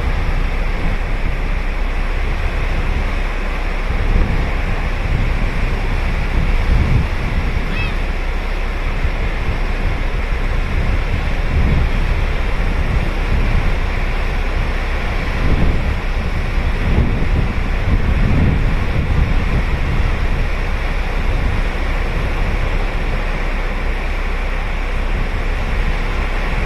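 Ocean surf breaking and washing onto a beach in a steady rush, with wind buffeting the microphone in uneven gusts.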